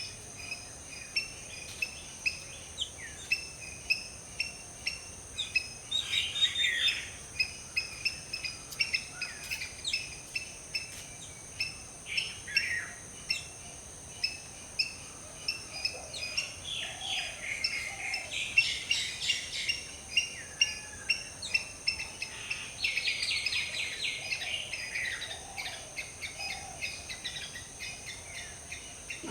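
A chorus of wild birds chirping and calling in tropical woodland, in quick trills and repeated short notes, busiest about a third of the way in and again past the middle. A steady high-pitched drone runs underneath.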